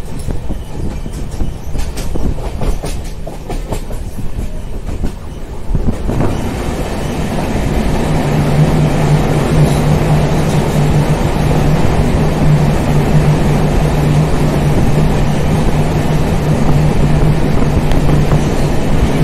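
Express passenger train running at speed, its wheels clicking over the rail joints. About six seconds in, the sound suddenly swells into a louder, steady roar with a low hum as the train enters a tunnel.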